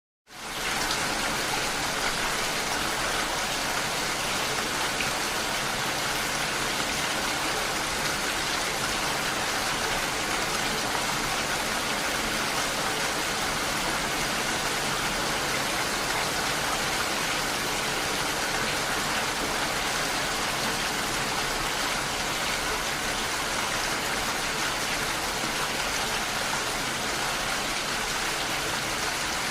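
Rain falling on window glass, a steady even hiss of drops; it swells in from a brief silence right at the start.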